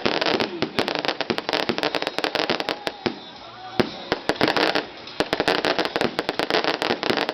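A string of firecrackers going off in rapid, irregular bangs, thinning out for a couple of seconds in the middle before picking up again.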